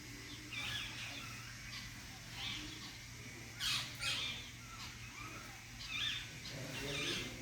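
Birds chirping: short calls repeating about once a second, with one sharper, louder call about halfway through, over a steady low hum.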